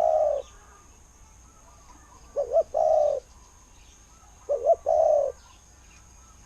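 Spotted dove cooing: a repeated phrase of two quick short notes followed by a longer coo, given about every two seconds, the tail of one phrase at the start and two full phrases about 2.5 and 4.5 seconds in.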